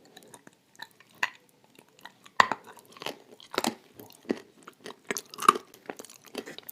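Dry Turkestan clay crunching as it is bitten and chewed, with blue clay paste on it: irregular sharp crunches, faint at first and louder and closer together from about two seconds in.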